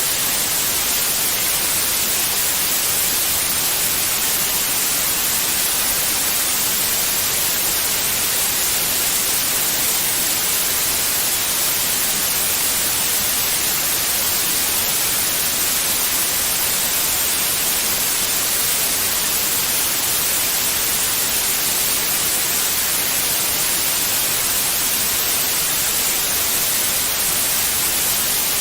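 Steady white noise: an even, unchanging hiss, brightest in the high frequencies, with no breaks or changes.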